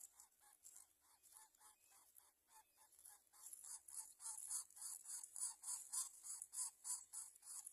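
Nestling birds begging: rapid repeated rasping calls, about four a second, growing louder about three seconds in.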